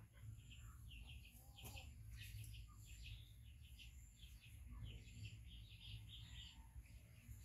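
Faint chirping of small birds: many short, high chirps in quick runs, over a low steady hum.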